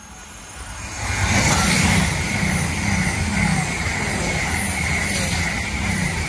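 East Midlands Railway Class 222 Meridian diesel multiple unit passing close at speed: the noise swells to loud about a second in and stays there, a rush of wheels on rail and underfloor diesel engines with a regular beat as the carriages go by.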